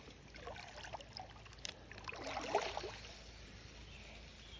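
Faint running water of a small creek, with scattered light clicks and rustles.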